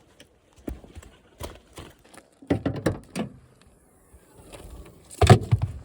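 Footsteps crunching and knocking irregularly, with the loudest steps about halfway through and again near the end.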